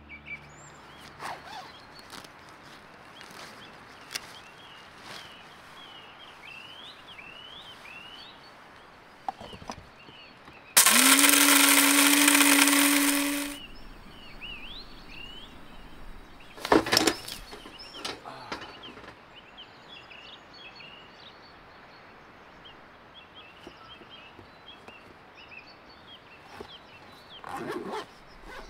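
Small birds chirping outdoors, interrupted about eleven seconds in by a loud hiss with a steady hum that rises briefly in pitch and then holds for about three seconds before stopping. A few short knocks follow.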